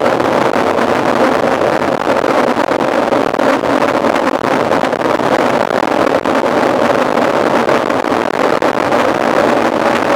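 Steady loud rush of wind on the microphone of a camera riding along on a mountain bike, with a faint steady hum underneath.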